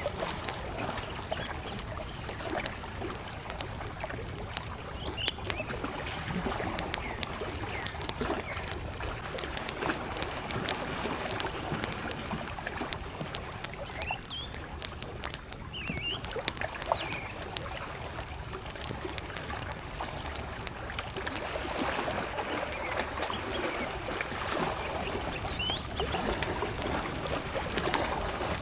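Campfire crackling with many small pops over gentle waves lapping at a lakeshore, with a few short bird chirps now and then.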